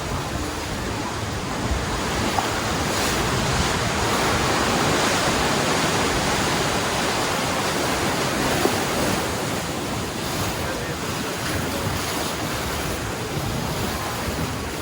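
Rushing, churning water of a river-rapids raft ride, a steady noise that swells a few seconds in and eases off later, with wind buffeting the microphone.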